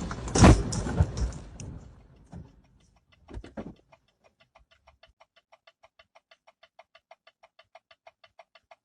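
Noise from a crash dying away over the first two seconds, a couple of knocks, then rapid electronic beeping, about five short beeps a second, keeping a steady pace: a vehicle warning alarm going off after the crash.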